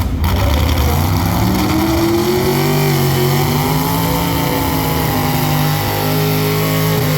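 A pulling vehicle's engine at high revs under heavy load as it drags a weighted sled down the track. Its pitch climbs over the first few seconds, then holds high and steady.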